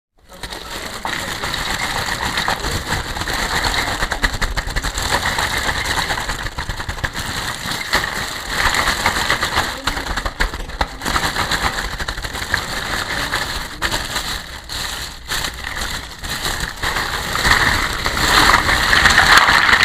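Plastic packaging crinkling and rustling continuously as it is handled, full of small crackles.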